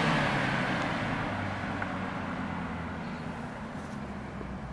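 A Mercedes-Benz C300 convertible's turbocharged four-cylinder engine driving off down the street after accelerating away, its engine and road noise fading steadily as the car recedes.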